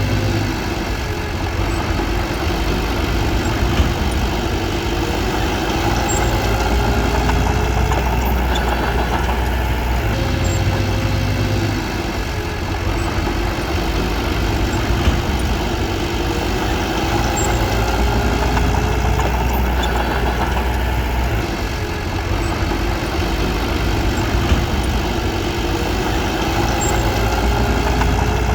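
Bulldozer's diesel engine running, its note rising and falling every ten seconds or so as it works, with a few sharp knocks.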